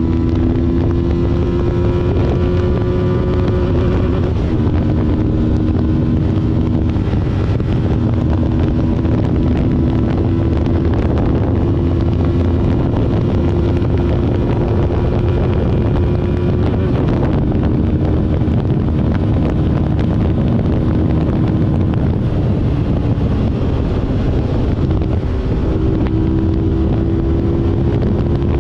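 BMW G 310 RR's single-cylinder engine, breathing through a K&N air filter, running steadily under way, its note shifting pitch a few times. Heavy wind rush on the microphone runs underneath.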